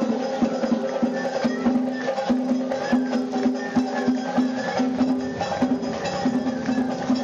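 Japanese festival hayashi music from the floats' ensembles: rapid drum and wood-block-like strikes over repeated held notes.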